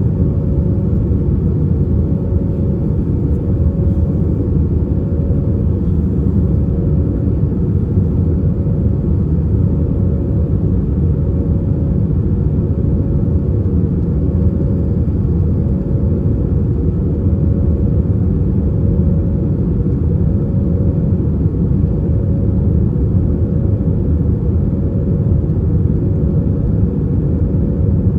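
Steady in-cabin noise of an Airbus A320-232 climbing after take-off: a dense low rush of airflow and its IAE V2500 turbofans, heard from a window seat. A thin steady hum rides on top and pulses gently.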